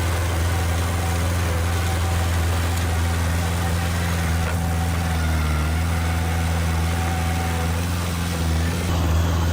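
Heavy diesel engine of an earthmoving machine running steadily at low revs, with a brief dip in pitch and level near the end.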